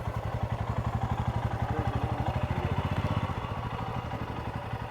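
Royal Enfield Himalayan motorcycle's single-cylinder engine idling with an even, rapid thumping pulse. It is a little louder for the first three seconds, then eases slightly.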